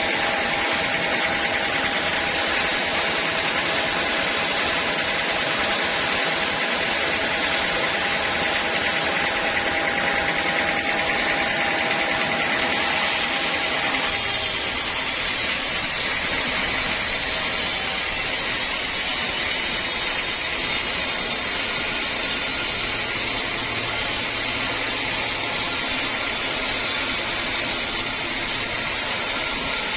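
Sawmill saw machinery running steadily on teak logs. About halfway through, a steady hum drops away and a brighter hiss takes over.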